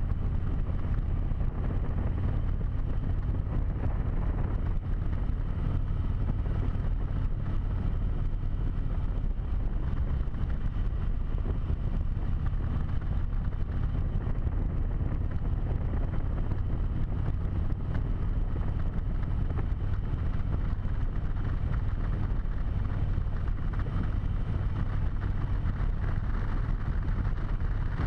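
Harley-Davidson V-twin motorcycle engine running at a steady speed while riding, with wind rushing over a helmet-mounted microphone.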